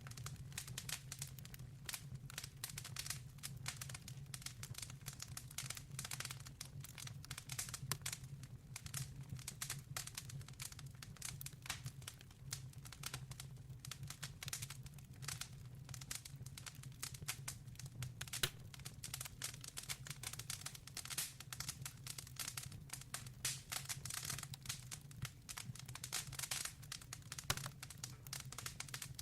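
Wood fire crackling in a stove-fireplace, a dense run of irregular snaps and pops over a steady low hum.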